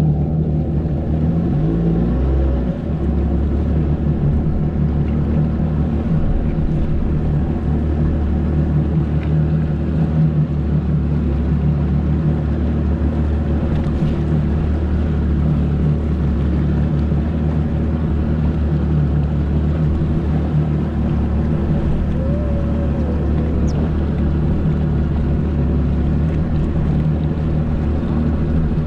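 Jet ski engine running steadily at speed, with a brief dip in pitch about two seconds in.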